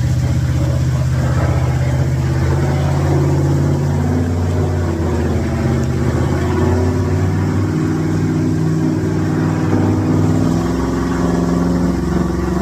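Mega truck's engine running under load while towing a dead pickup, its pitch shifting up and down a little a few times.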